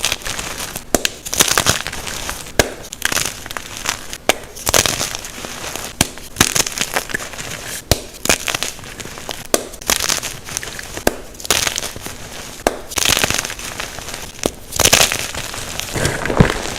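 Unpolished gym chalk blocks being crushed, crunching and crumbling in a close, irregular run of sharp snaps and crackles.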